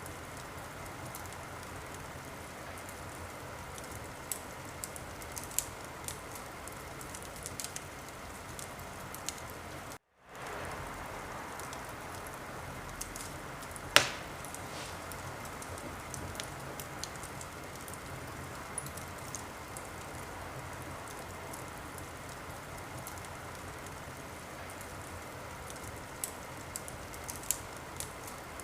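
Wood fire crackling in a fireplace: a steady hiss with scattered sharp crackles and one loud pop about halfway through. The sound drops out for a split second about a third of the way in.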